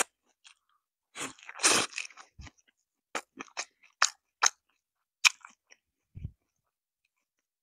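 Close-miked chewing of a mouthful of leafy kimchi greens. A dense burst of crunching about a second in is followed by a string of separate wet mouth clicks, then the chewing stops near the end.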